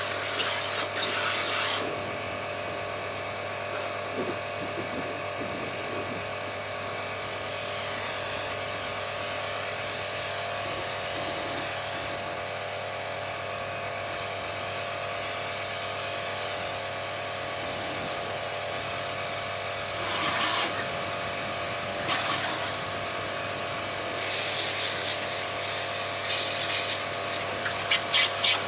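A steady machine hum with a hissing spray over it, the hiss loud at the start and again for the last few seconds.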